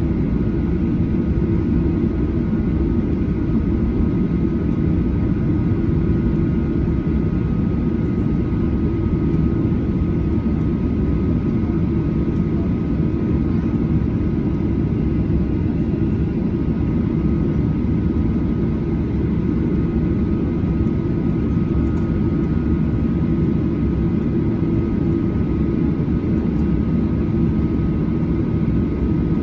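The Boeing 737-800's CFM56-7B jet engines running steadily: a constant deep roar with a few faint steady whine tones above it.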